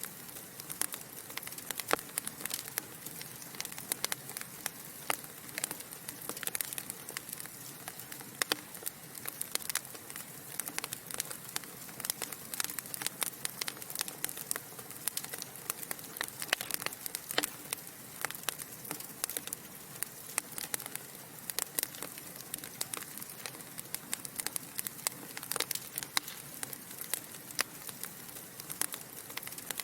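Wood fire crackling in a fireplace: a steady soft hiss of burning logs with frequent irregular sharp pops and snaps.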